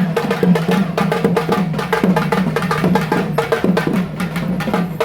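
Drums beaten in a fast, dense, steady rhythm for the Erumeli petta thullal dance, with many strokes a second.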